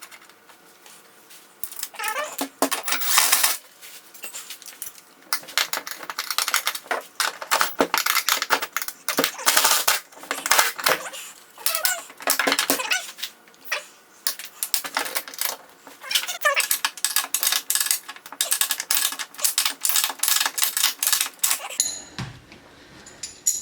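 Ratchet wrench clicking in repeated bursts of rapid strokes, with short pauses between them, while nylon-insert lock nuts are tightened onto a gas strut's mounts.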